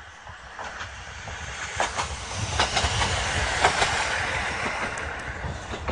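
Single-car diesel railcar passing close by, growing louder as it approaches and loudest about three to four seconds in. Its wheels click over the rail joints.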